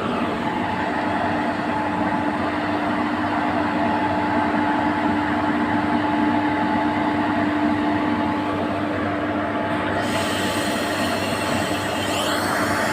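Goods train running steadily, a continuous rumble with a steady hum from the locomotive; a higher hissing noise joins about ten seconds in.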